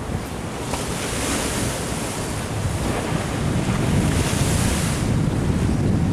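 Ocean surf washing in, a hiss that swells about a second in and dies away around five seconds, over a low rumble of wind buffeting the microphone.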